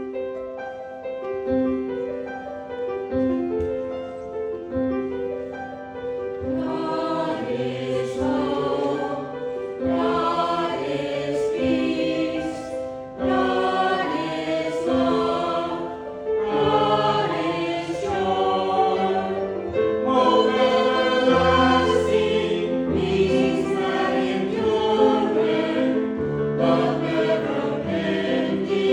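Hymn in church: held instrumental chords open it, and a group of voices joins in about six seconds in, singing phrase by phrase with the accompaniment.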